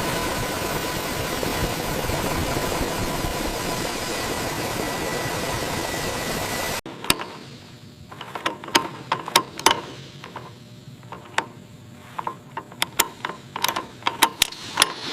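A steady machine noise with a faint high hum stops abruptly about seven seconds in. A quieter stretch of irregular sharp clicks and ticks follows, like mechanisms or hand tools being worked.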